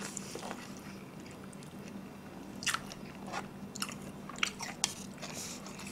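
Close-miked eating sounds: a person chewing a mouthful of stir-fried black bean noodles (jjajangmyeon), with a few short sharp mouth clicks scattered through the second half.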